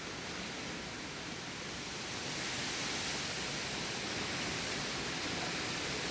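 A steady hiss of even noise with no distinct events, growing a little louder about two seconds in.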